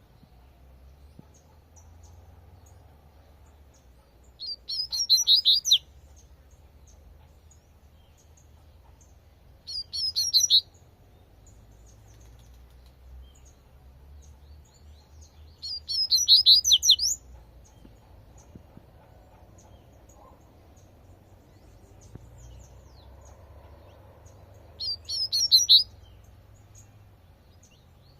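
Double-collared seedeater (coleirinho) singing its 'tui-tui' song: four short, high, rapid phrases, each a second or so long, separated by several seconds of quiet.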